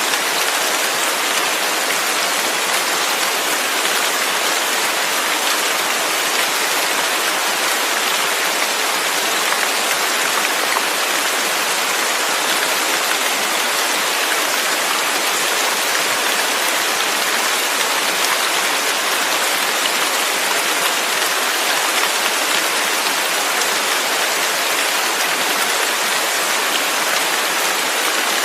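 Steady rain, an even hiss of falling drops with no breaks or changes.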